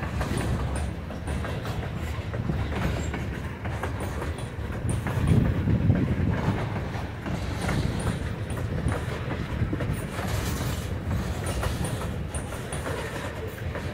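Freight train of tank cars rolling slowly past, the steel wheels clicking and clattering over the rail joints with a steady rumble. Faint high squeaks from the wheels come now and then.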